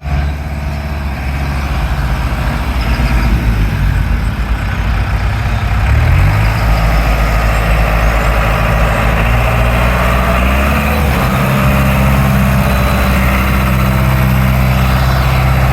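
Farm tractor engine running steadily under way. Its pitch rises about five seconds in and again about ten seconds in, then holds at the higher speed.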